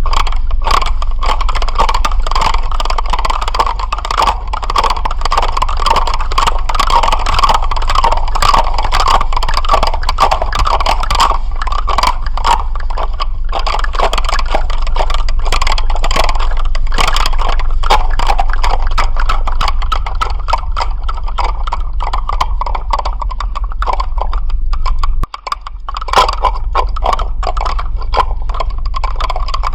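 Dense, continuous rattling: rapid irregular clicks over a buzzy band and a steady low hum. It cuts out for a moment about four-fifths of the way through, then resumes.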